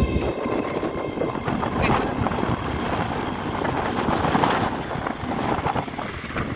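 ScotRail Class 385 electric multiple unit running past and away along the platform, its passage heard as a continuous rumble under heavy wind buffeting the microphone, easing slightly near the end.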